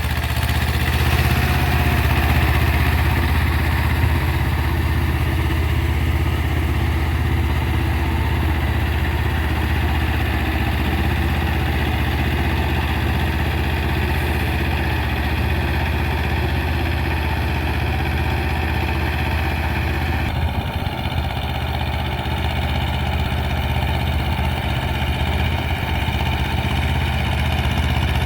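Mahindra Jivo 245 DI tractor's two-cylinder diesel engine running steadily, running well.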